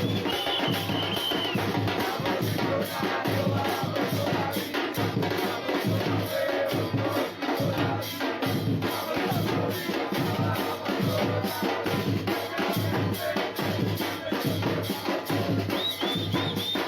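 A supporters' band of drums and percussion playing a steady, driving rhythm, with short high held notes near the start and again near the end.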